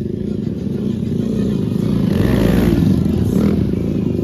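Motorcycle engine running close by with a rapid low pulse, swelling louder about two seconds in.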